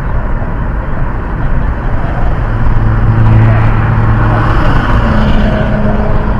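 Car driving, heard from inside the cabin: steady engine and tyre noise, with a low engine tone that swells around the middle and then slides down in pitch near the end.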